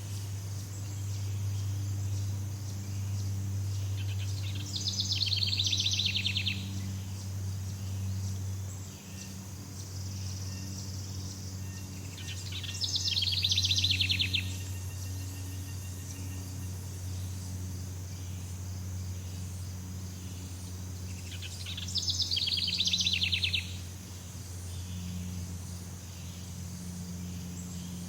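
Jungle ambience: a fast, high trilled animal call comes three times, each lasting about two seconds and spaced about nine seconds apart, over a steady high insect drone and a low steady hum.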